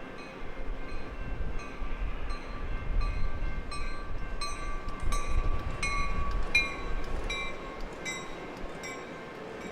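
Jet airliner passing close on final approach: engine whine and rumble swell to a peak midway, with the pitch dropping slightly as it goes by, then fade.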